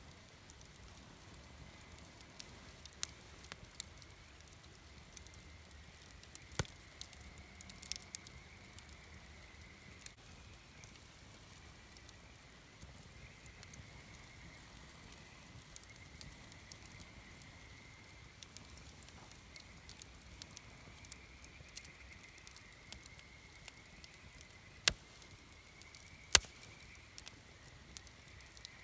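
Wood campfire burning with scattered sharp crackles and pops, two louder pops near the end.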